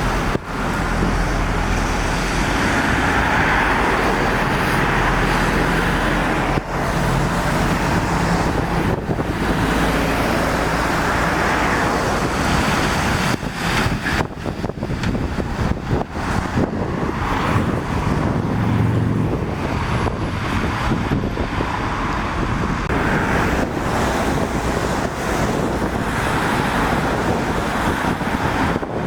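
Road traffic passing: lorries and cars going by one after another, with engine rumble rising and fading as each passes and tyre hiss off a wet road.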